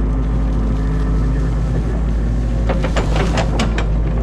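Excavator's diesel engine running steadily, heard from inside the cab, with a quick run of sharp cracks and snaps about three seconds in: branches of a beaver dam breaking as the machine pulls them out.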